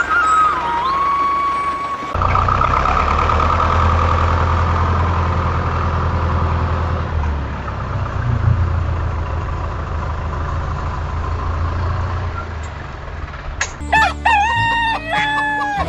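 A steady low mechanical hum, then a rooster crowing once near the end.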